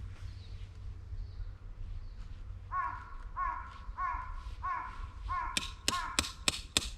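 A crow cawing in a run of about six evenly spaced caws, starting about three seconds in. Near the end a quick series of sharp taps, about four a second, joins in.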